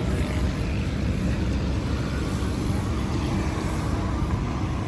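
Machinery running with a steady low rumble.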